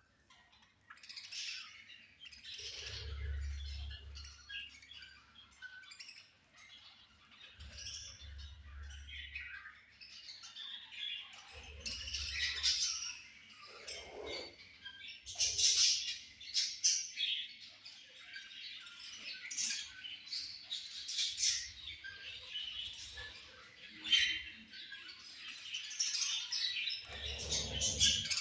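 Several budgerigars chirping and chattering continuously, many short overlapping high chirps and warbles, with a few brief low rumbles underneath.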